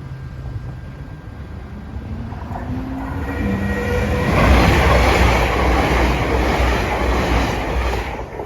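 Greater Anglia Class 720 electric multiple unit passing over the level crossing: the rumble of the train builds as it approaches, stays loud for about four seconds as the carriages go by, then drops away quickly near the end.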